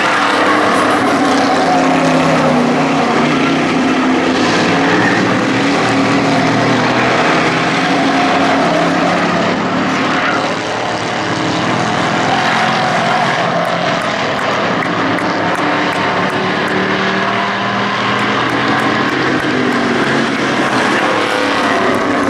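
Engines of a field of hobby-class race trucks running at speed around a short oval, several engines overlapping in a steady drone whose pitches drift up and down as the trucks lap, with a brief dip about ten seconds in.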